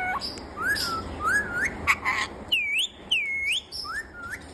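Green parrot whistling: a few short rising swoops, then two longer whistles that dip and rise again in the middle, then another rising swoop near the end.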